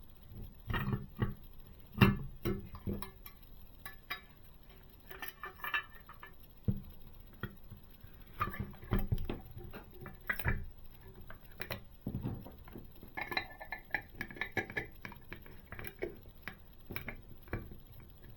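Small parts of a scale model motorcycle being handled and fitted together by hand: irregular light clicks, taps and knocks.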